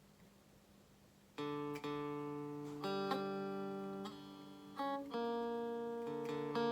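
Electric guitar with strummed chords ringing out, one after another. It comes in about a second and a half in, after a near-quiet start, and changes chord every second or so.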